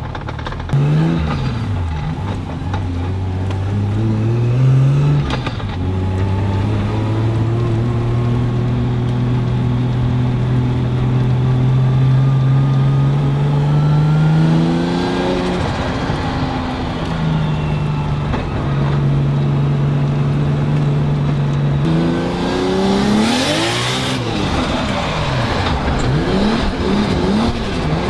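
Toyota Chaser drift car's 1.5JZ straight-six revving hard, climbing in pitch through long pulls and dropping at each gear change. Near the end it blips up and down rapidly, and a loud hissing burst briefly covers it.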